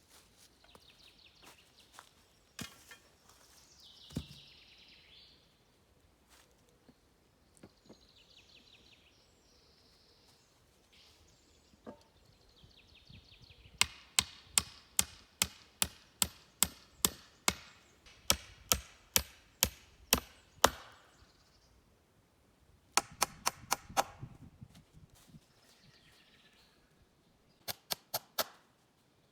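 A hand tool striking wood, as in chopping or hammering. A few scattered knocks come first, then a steady run of about twenty sharp blows at roughly three a second. Two quicker bursts of blows follow near the end.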